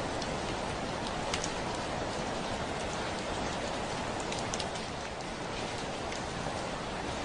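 Heavy rain falling steadily on a window, a constant hiss with scattered sharper drops striking the glass.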